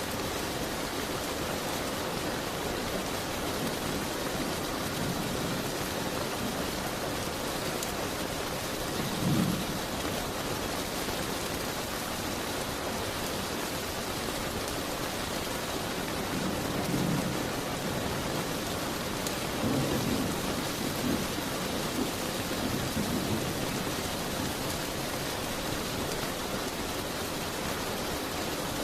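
Steady rain hiss against a window, with a few low rumbles swelling through it, one about nine seconds in and several more past the middle.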